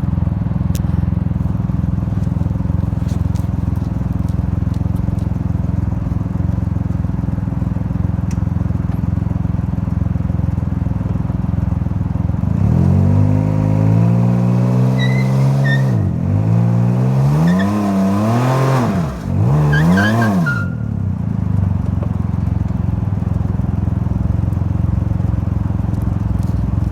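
Can-Am Ryker 900's three-cylinder Rotax ACE engine running through its stock muffler, which has been drilled out. It idles steadily, is revved up and down about three times about halfway through, then drops back to idle.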